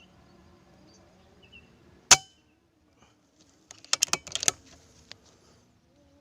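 A single sharp air-rifle shot about two seconds in, followed a couple of seconds later by a quick run of metallic clicks and clatter and one last click.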